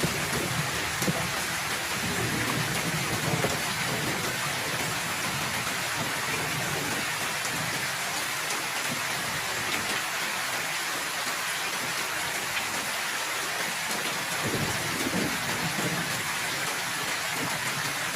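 Heavy rain falling steadily, with low rolls of thunder rumbling in the first few seconds and again about three quarters of the way through.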